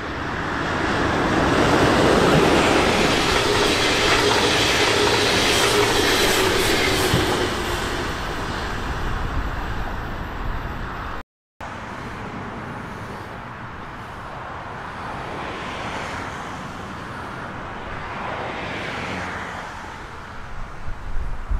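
Electric passenger train passing at speed, an electric locomotive with double-deck coaches: a swelling rush of wheels on rail, loudest in the first few seconds, with a low whine that falls away as it goes. After a break, a quieter electric multiple-unit train runs by, and a freight train approaches near the end.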